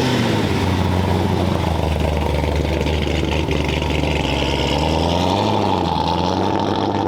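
Modified car engine running at low speed with a choppy idle, its note rising a little about five seconds in.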